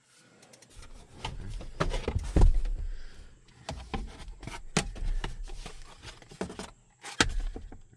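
Irregular rubbing, scraping and knocking handling noises with a low rumble, the sharpest knocks a little past two seconds in and just after seven seconds.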